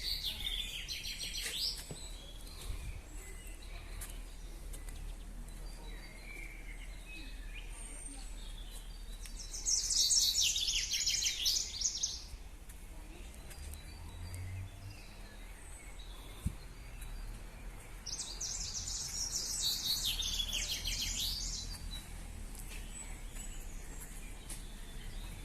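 A songbird singing three short, fast trilled phrases, each about two to three seconds long and several seconds apart, over a steady low background rumble.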